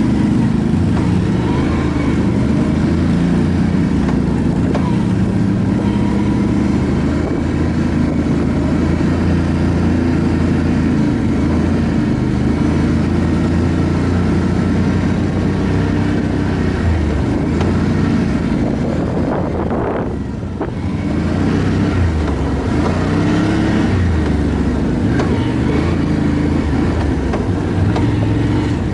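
ATV engine running under way, its pitch rising and falling with the throttle. It briefly goes quieter about twenty seconds in.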